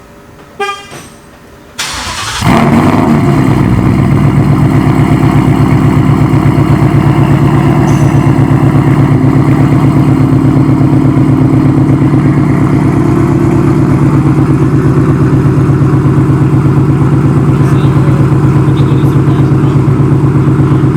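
2019 Mustang GT's 5.0 V8 firing up about two seconds in, after a couple of knocks, then idling loud and steady with an even pulse through a straight H-pipe and Flowmaster Outlaw catback mufflers, the active exhaust valves not yet set up.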